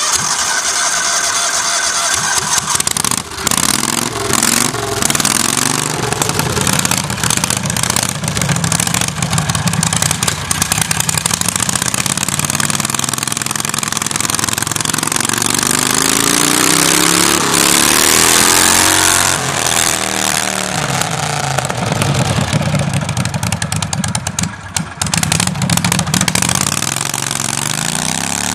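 Modified Cub Cadet 129 pulling tractor's engine running loud, its revs rising and falling several times, with a long climb and drop around the middle and another climb near the end.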